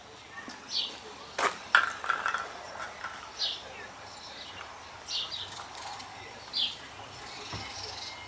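Birds chirping: short, high chirps that fall in pitch, one every second or two, with a sharp knock about a second and a half in. No engine is running or cranking.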